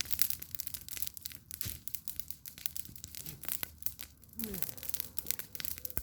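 Wood campfire crackling, with frequent irregular sharp pops and snaps of burning wood.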